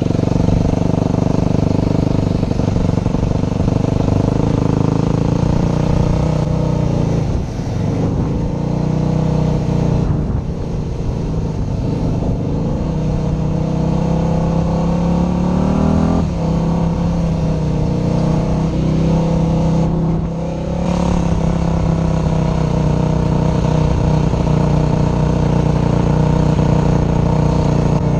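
Motorcycle engine running hard under way, its pitch climbing and then dropping with gear changes several times.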